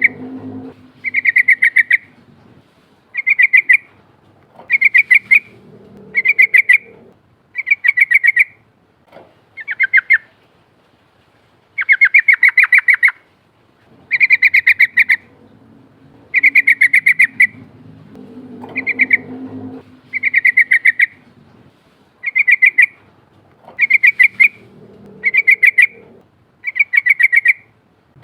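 Yellow-vented bulbul (trucukan) singing a series of short, bright chattering phrases. Each phrase is a quick run of rapid notes lasting under a second, repeated about every one to two seconds.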